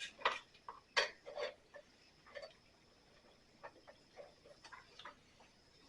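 Irregular light metal clicks and taps of a socket ratchet working a bolt loose on a lawn mower, louder in the first second or so, then softer, sparser clicks.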